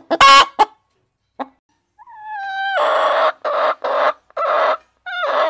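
Hens clucking and calling: a few quick clucks at first, then about two seconds in a rising call leads into a run of loud, short calls.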